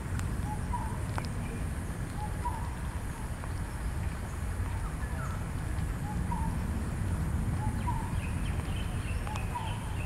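A bird repeating a short call about every second and a half, with a few sharp knocks and some higher chirps near the end, over a steady low rumble.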